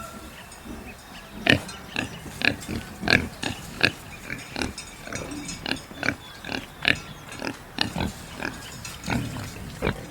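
Pigs grunting, short calls following one another quickly and irregularly, about two a second.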